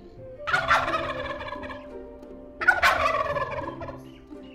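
Tom turkeys gobbling: two gobbles about two seconds apart, each a sudden rattling call that trails off.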